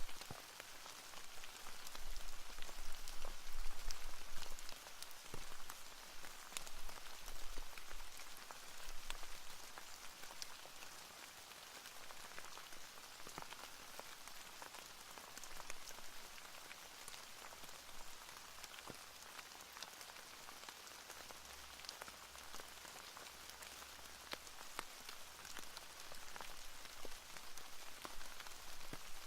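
Steady rain, an even patter with scattered individual drops ticking, a little heavier in the first several seconds.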